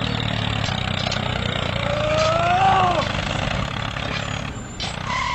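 Small electric motor of a DIY model tractor running with a steady hum. About two seconds in, a single drawn-out call rises and then falls over it.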